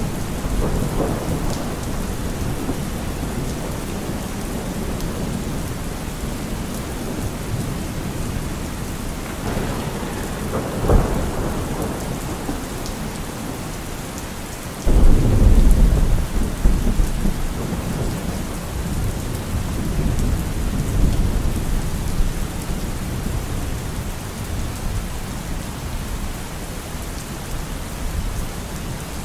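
Steady rain with thunder: a short sharp crack about eleven seconds in, then a sudden loud deep rumble about halfway through that rolls on and fades over several seconds.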